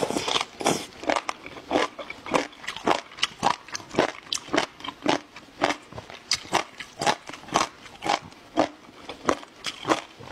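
Close-miked crunchy chewing of jellyfish, a steady run of crisp crunches about two to three a second.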